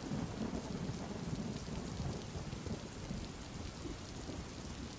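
Steady rain ambience with a low rumble of thunder, the rumble slowly easing off.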